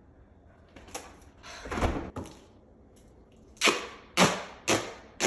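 Sharp clicks: one about a second in, a short scuffing thud near two seconds, then four quick clicks about half a second apart near the end.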